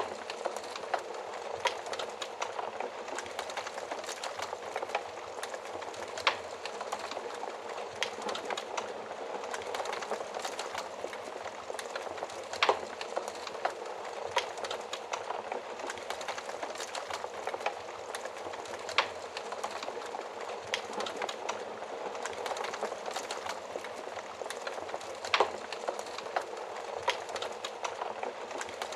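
Wood fire crackling inside an oven fireplace: a steady hiss of flames with frequent small crackles and a few louder, sharper pops spaced several seconds apart.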